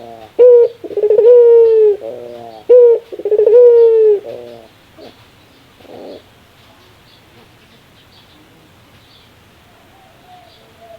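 Barbary dove (burung puter) giving its 'laughing' call three times in a row. Each round is a short note and a long coo, then a quick stuttering run of notes. The calls stop after about four and a half seconds.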